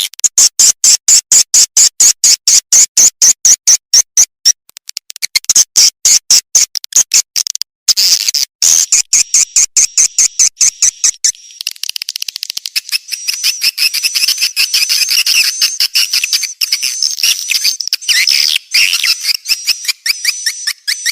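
Edible-nest swiftlet calls, as used to lure swiftlets to a nesting house: for the first half a fast, even train of sharp high clicking chirps, then from about halfway a denser twittering chatter of high chirps.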